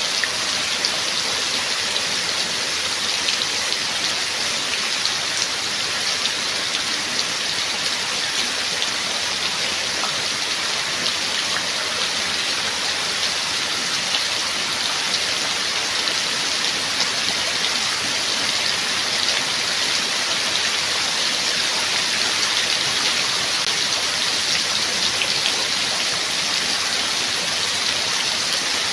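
Steady rain falling: a dense, even hiss of drops with fine individual drop ticks through it.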